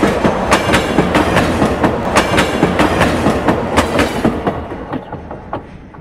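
Freight train of open-top wagons rolling away, its wheels clacking over rail joints in a fast, uneven rhythm. The clatter fades out a little over two-thirds of the way through as the last wagons recede.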